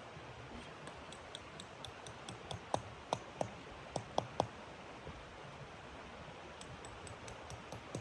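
Irregular sharp clicks and crackles over a steady hiss, sparse at first, then louder and more frequent from about two seconds in, with a cluster of the loudest clicks around the middle.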